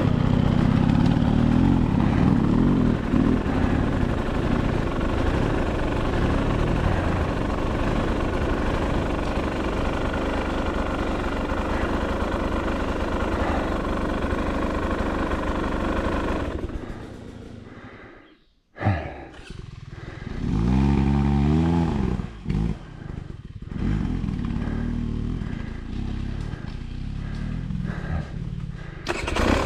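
Dirt bike engine running steadily under way. Past halfway the sound fades and drops out briefly, then the engine revs up and down a few times before running on steadily.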